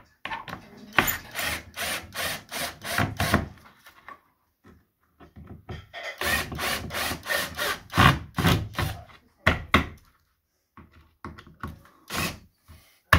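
Repeated strokes of a hand tool working on wood, about three a second, in two runs of several seconds each with a quiet pause between.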